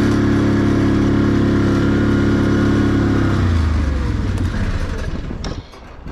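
A vehicle engine runs steadily, then drops in pitch about three and a half seconds in and fades away.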